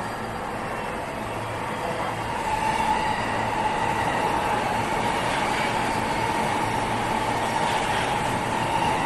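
A train running, with a steady rumble and a steady whine; it grows louder about two and a half seconds in and stays at that level.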